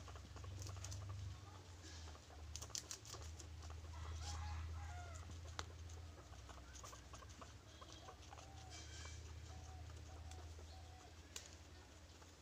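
Faint short animal calls, scattered through the middle, with a few sharp clicks over a steady low hum.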